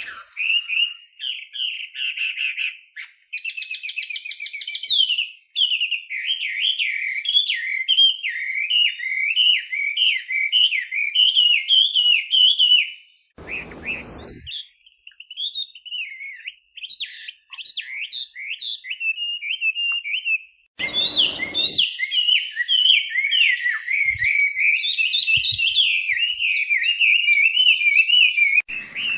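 Chinese hwamei (laughingthrush) singing a long, rapid, varied warbling song of quick whistled notes that slide up and down, broken by a short pause about halfway through. Two brief bursts of noise come in, one in the pause and one a little later.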